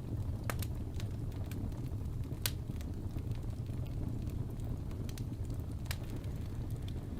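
Wood fire burning in a fireplace: a steady low rumble of flames with scattered sharp crackles and pops, the loudest about two and a half seconds in.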